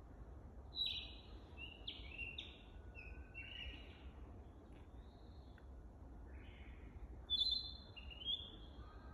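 Male narcissus flycatcher singing two short phrases of whistled notes, the first about a second in and the second near the end. It is a clumsy song, still being practised.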